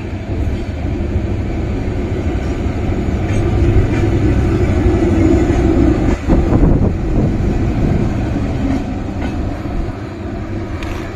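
LHB passenger coaches running past at speed on the rails, a loud steady rumble with a burst of wheel clatter over the rail joints about six seconds in as the last coach's bogies go by. The sound then eases as the train draws away.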